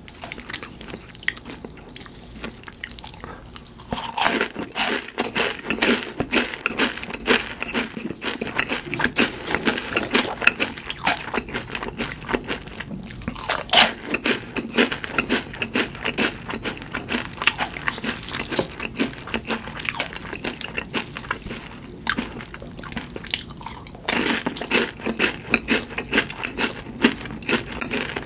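Close-miked chewing and biting of crispy fried food: dense, irregular crackling crunches, softer for the first few seconds and for a moment near the end.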